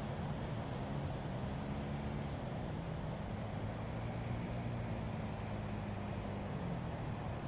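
A vehicle engine running steadily: a low hum under a constant rushing noise.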